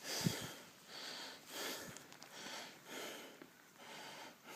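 A person breathing hard, a run of quick, noisy breaths close to the microphone.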